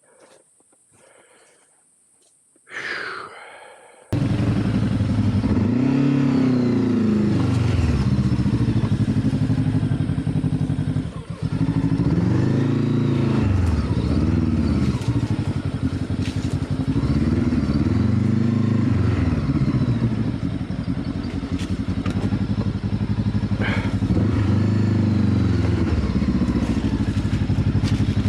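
Off-road motorcycle engine riding, its pitch rising and falling again and again as the throttle is opened and closed. It cuts in suddenly and loudly about four seconds in, after a few quiet seconds.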